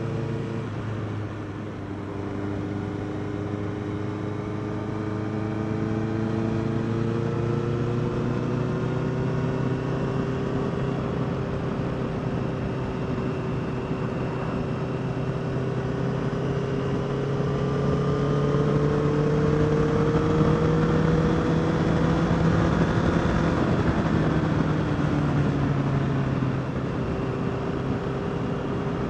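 Honda CBR650R's inline-four engine running under way, over a steady rushing hiss. Its pitch drops sharply about a second in, then climbs slowly for about twenty seconds before easing off near the end.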